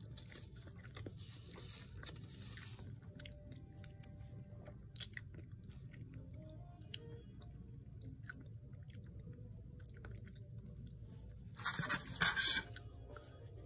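A person chewing a mouthful of burger with dentures, small wet mouth clicks scattered through. Near the end comes a louder hissing rush lasting about a second.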